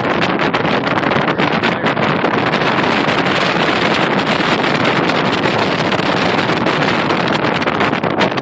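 Steady rushing wind and road noise in a moving vehicle, fluttering with buffets of wind.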